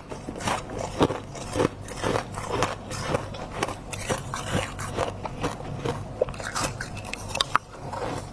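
Close-up crunching and chewing of freezer frost, crisp icy crunches about twice a second.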